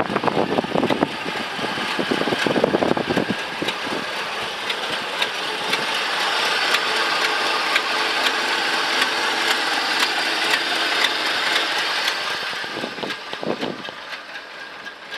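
1970 Chevrolet C-50 grain truck's engine running, with many short clicks over the steady engine sound. It fades over the last couple of seconds.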